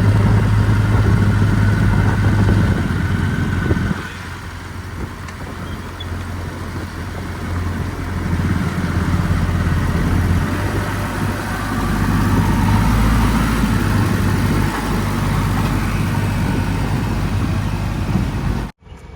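Heavy diesel engine of working machinery running with a steady low hum. It is loud for the first few seconds, drops off about four seconds in, then picks up again, and cuts off abruptly near the end.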